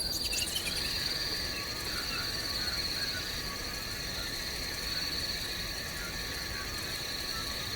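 Outdoor insect ambience: a steady high-pitched insect trill, with faint short calls repeating underneath.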